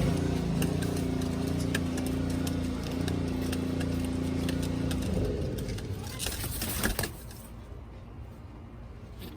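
A nearby engine runs steadily, then winds down and stops about five seconds in. Small clicks and a couple of knocks sound over it.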